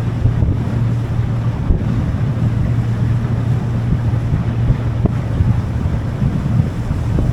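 Boat engine running at a steady pitch while the boat is under way, with wind buffeting the microphone and water rushing past the hull.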